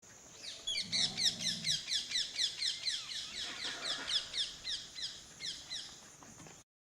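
A rapid series of high, downward-sweeping chirping calls from an animal, about five a second for several seconds.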